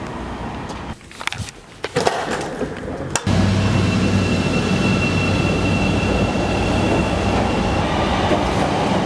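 A moving train running: a steady loud rumble with a low hum and a thin high whine, starting abruptly about three seconds in after a few short clicks and knocks.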